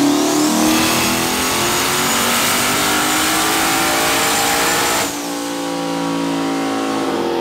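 Turbocharged 5.3-litre V8 in a Corvette on a chassis dyno, making a full-throttle pull. The engine climbs steadily in pitch with a turbo whistle rising and then holding high. About five seconds in the throttle is let off and the engine winds down.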